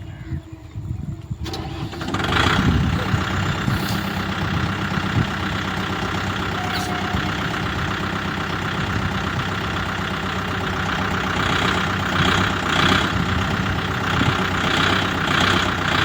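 Kubota MU5502 tractor's four-cylinder diesel engine starting about two seconds in, then running steadily. It swells a little in pulses over the last few seconds.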